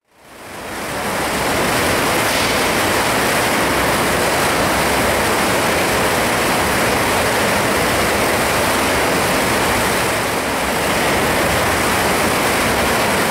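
Steady rushing of spa-pool water, fading in over about the first second and then holding level.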